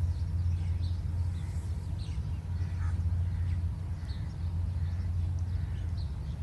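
Birds chirping faintly and sporadically over a steady low rumble.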